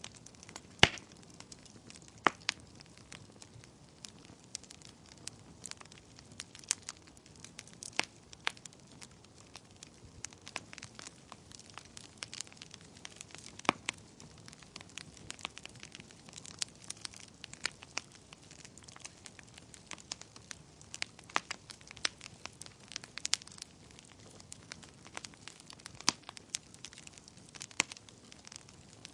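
Wood fire crackling in a fireplace: irregular sharp pops and snaps over a soft steady hiss, with a few louder pops, the strongest just under a second in.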